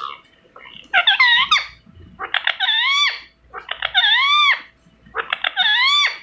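Parrot calling: four drawn-out squawks, each under a second long and rising then falling in pitch, about one every second and a half.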